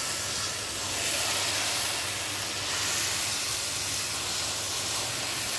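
Grated carrots frying in desi ghee in a wok, a steady sizzling hiss now that their own water has cooked off and the frying (bhunna) stage of carrot halwa begins.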